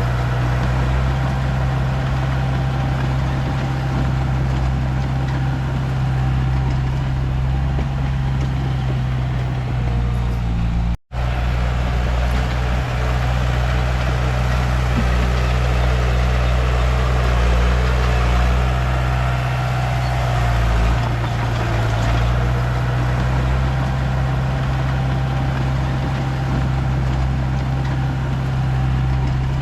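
Komatsu D31P bulldozer's diesel engine running steadily with a low, even note. The sound cuts out for a moment about eleven seconds in.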